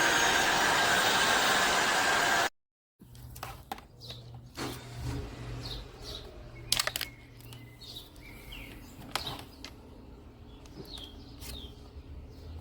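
Tineco iFloor 5 Steam wet-dry floor cleaner running steadily, cutting off abruptly about two and a half seconds in. After that, faint scattered clicks and knocks over a low hum, with a few short high chirps.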